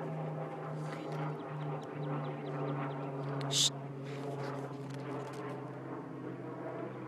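A steady mechanical hum whose pitch sinks slightly, with one brief sharp hiss about three and a half seconds in.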